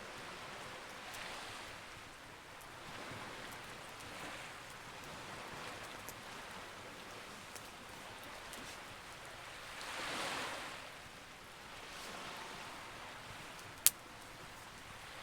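Campfire crackling with scattered small pops and one loud snap near the end, over a wash of sea waves that swells every few seconds.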